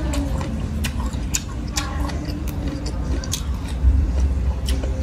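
Close-up chewing of papaya salad and raw greens, with scattered sharp, crisp crunches and mouth clicks over a steady low hum.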